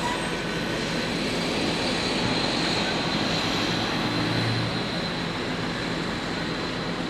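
Steady rushing noise with a low engine hum running under it: a motor vehicle running.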